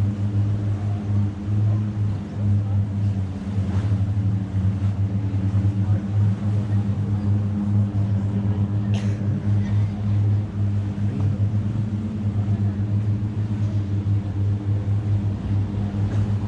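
Longtail boat engine running at a steady idle, a low, even drone with a fast pulsing beat. A single sharp click about nine seconds in.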